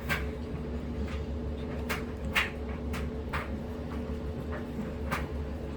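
A steady low hum of room noise, with a handful of short, soft clicks scattered through it.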